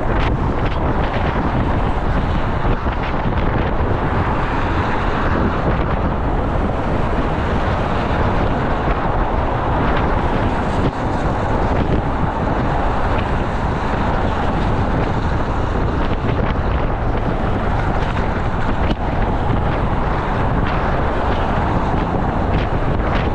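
Strong wind buffeting the microphone, with a steady low rumble underneath.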